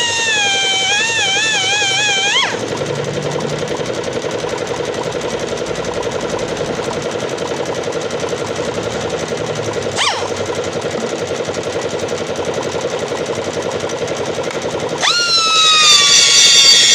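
Pneumatic air grinder whining at high pitch, the pitch wavering up and down as it is worked, then cutting off about two and a half seconds in. A steady, fast-pulsing mechanical rattle follows, with a brief spin-up whine near the middle, and the grinder's high whine starts again about two seconds before the end, settling slightly lower in pitch.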